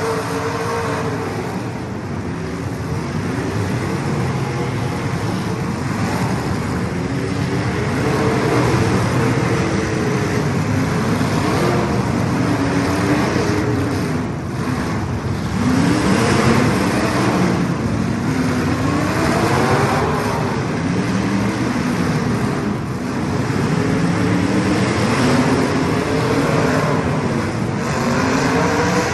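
Several small race car engines running laps together, their pitch rising and falling over and over as they accelerate and pass.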